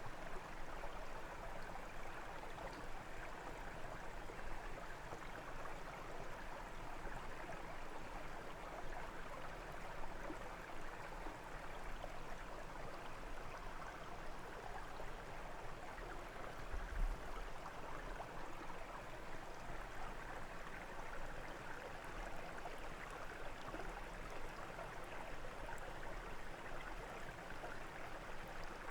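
A brook flowing, a steady, even rush of water. About two-thirds of the way in there is a brief low thump.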